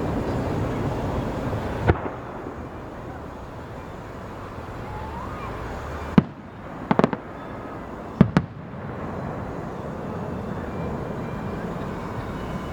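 Fireworks going off: a single sharp bang about two seconds in, then a cluster of five bangs, some in quick pairs, between about six and eight and a half seconds, over a steady background hum of outdoor noise.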